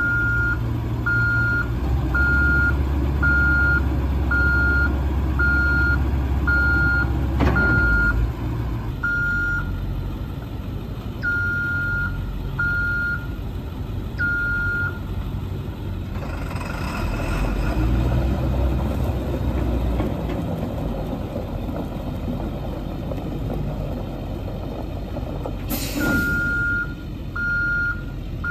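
International 4700 boom truck's 7.3L diesel running, with its back-up alarm beeping about once a second, the sign it is in reverse. The beeping stops about halfway through and starts again near the end, just after a brief hiss.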